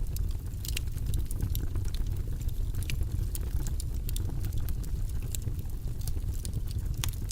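Steady white-noise ambience, a deep rushing hiss weighted to the low end, with scattered light clicks and crackles on top.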